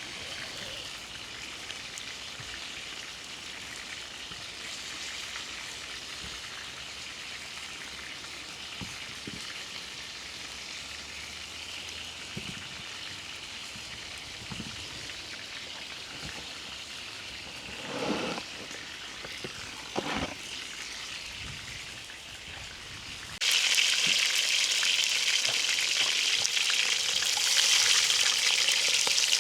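Food sizzling steadily on a hot saj, with two short handling sounds midway. About 23 seconds in, the sizzling suddenly becomes much louder and hissier and stays that way.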